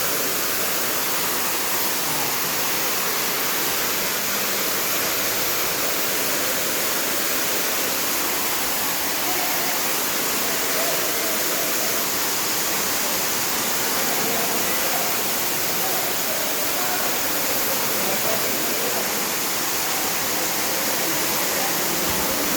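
Ruby Falls, an underground waterfall inside a cave, pouring steadily: an even, unbroken rush of falling water.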